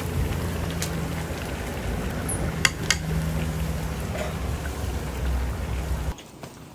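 Food sizzling and bubbling in a pot on a wood fire: a steady hiss with a few sharp clicks, over a low steady hum. About six seconds in, the sound drops away abruptly, with the hum gone.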